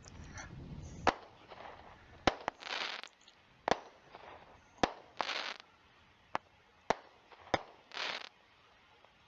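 Small 200-gram consumer firework cake firing: a string of sharp reports roughly one a second, several followed by short hissing bursts.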